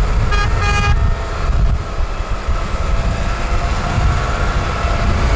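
Farm tractor engine pulling a heavily loaded trailer, a loud steady low rumble. Two short high-pitched beeps come in the first second.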